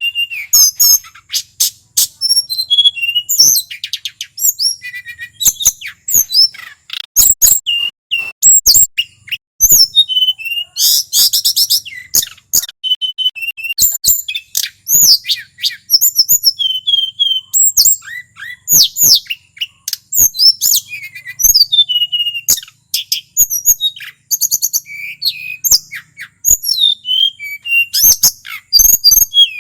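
Male tledekan gunung singing in a long, rapid, varied run of quick whistled slurs, buzzy trills and sharp clicking notes, with hardly a pause.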